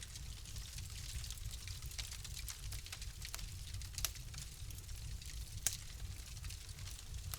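Fire crackling in a fireplace: irregular sharp pops and snaps over a soft hiss and a steady low rumble, with the loudest pops about four seconds in and again near six.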